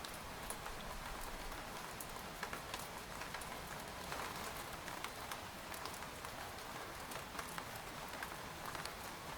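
Steady rain pattering on a tent, with a fine even hiss and many separate sharp drop ticks at irregular moments.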